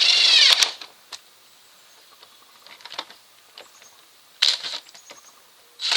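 Cordless impact tool running bolts down in short bursts: a loud run of about a second at the start with its motor pitch sweeping, then two shorter bursts around four and a half seconds and at the end, with small clicks and taps between.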